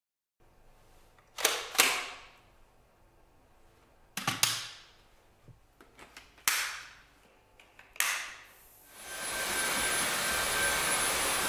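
Several sharp clicks of parts of a Dyson cordless stick vacuum being snapped together, then the vacuum switching on and running with a steady rush of air and a thin whine. It runs without pulsing, a sign that no blockage is holding back the airflow.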